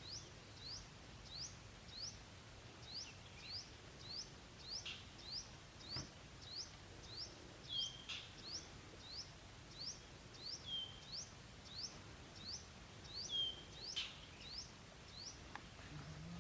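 A bird repeating a short, high, upward-sweeping chirp about twice a second, with a few lower, drawn-out notes mixed in.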